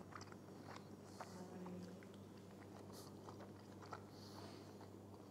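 Faint sounds of a man chewing a bite of grilled steak: scattered small mouth clicks over a low steady hum of room tone.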